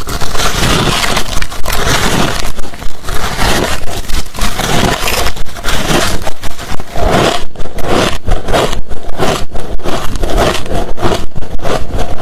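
Hard crushed and shaved ice being chewed close to the microphone: loud, dense crunching, settling in the second half into a quick, steady run of separate crunches.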